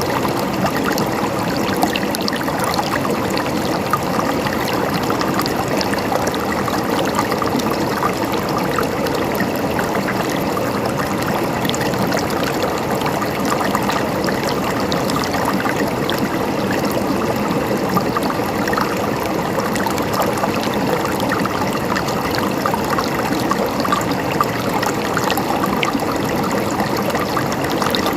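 A river flowing over stones: a steady rushing and babbling of water, with small splashes all through.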